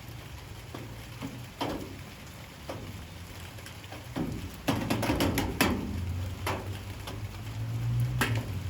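Light rain, with large drips knocking irregularly on hard surfaces, several in quick succession about halfway through, over a steady low hum.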